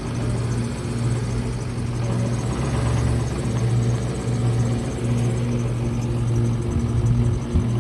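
2006 Ford F-450 Super Duty truck's engine idling steadily, a constant low hum.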